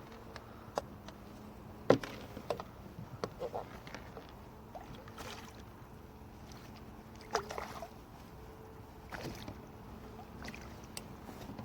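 Scattered knocks and clicks of gear and hands on a kayak, about ten irregular taps, over a faint hum.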